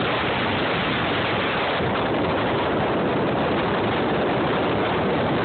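Strong wind buffeting a phone's microphone: a steady rushing noise with no let-up.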